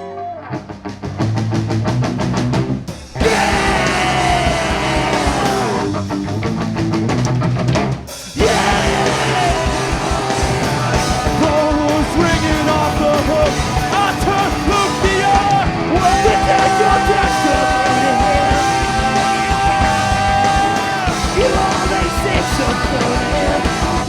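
Live punk rock band playing an instrumental passage driven by a drum kit, with two brief stops about three and eight seconds in and a long held note in the last third.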